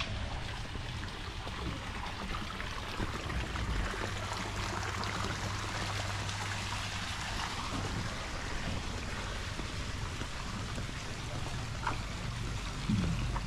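Steady rush of running water, like a stream, with a low steady hum underneath.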